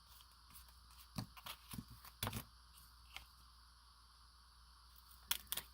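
Light rustling and tapping from handling fabric scraps on a work surface, with two sharp clicks near the end.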